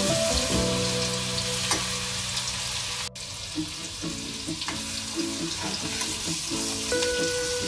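Garlic paste sizzling as it fries in hot oil in a metal kadhai, stirred with a spatula, with background music of held notes underneath.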